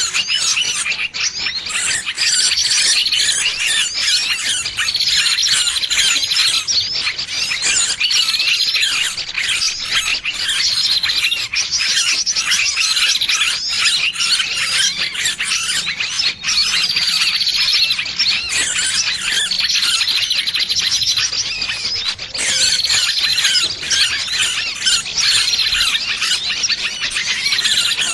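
Shrill, squealing distress calls of a small bird caught or pinched, dense and unbroken, with a short call near the top repeated every second or two. This kind of distress call is used as a trapping lure to draw other birds in.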